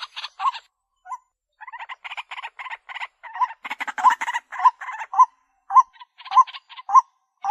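White-breasted waterhen calling: a rapid series of short, harsh calls, each ending in an upturned note, repeated about three times a second, with a brief pause about a second in.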